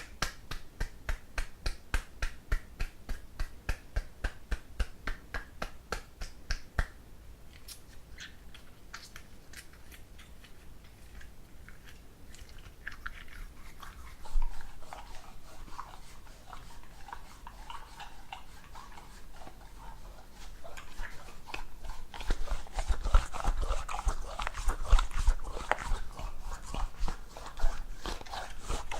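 Close-miked handling of a silicone ear model: sharp taps about three a second for the first seven seconds, then soft crackling and rubbing that grows louder near the end.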